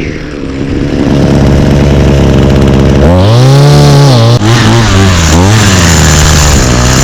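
Small two-stroke string trimmer engine running: it settles back toward idle, is revved up once about three seconds in, then blipped up and down several times near the end. It runs poorly, and its primer is not priming.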